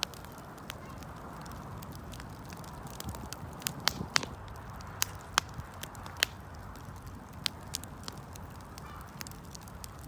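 Wood fire burning: a steady low hiss with sharp, irregular crackles and pops, several louder pops bunched between about four and six seconds in.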